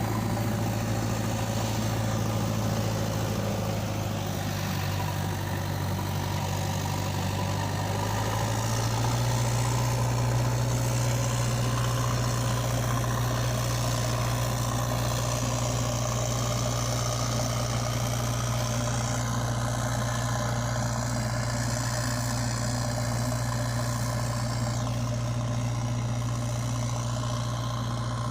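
Diesel engine of a tractor-size machine running steadily at low speed. Its pitch steps up slightly twice, about four and about nine seconds in, then holds.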